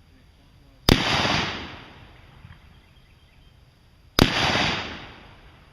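Two gunshots about three seconds apart, each a sharp crack followed by about a second of echo dying away.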